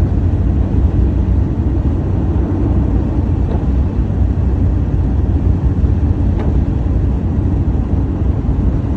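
Storm wind buffeting the microphone: a loud, steady low rumble with rapid small surges, and a couple of faint ticks.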